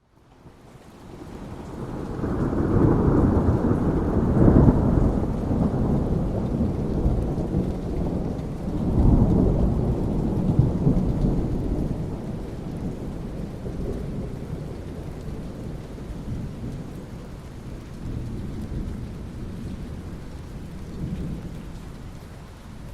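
A long roll of thunder over steady rain. It rises out of a brief hush, peaks a few seconds in, swells again about nine seconds in, then slowly dies away while the rain goes on.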